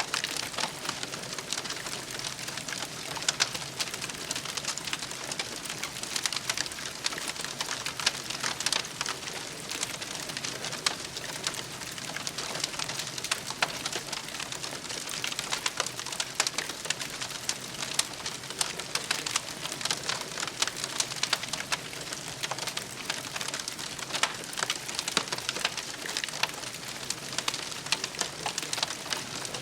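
Campfire crackling: a dense, steady run of small sharp pops and snaps over a soft hiss.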